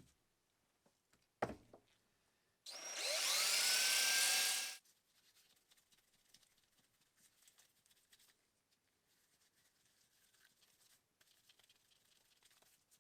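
Singer 15-class sewing machine run briefly at speed: a motor whine rising as it spins up, then stopping abruptly after about two seconds. A single sharp knock comes just before it.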